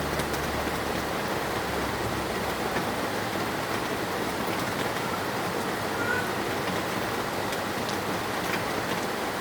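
Steady heavy rain falling, an even hiss with scattered drops ticking.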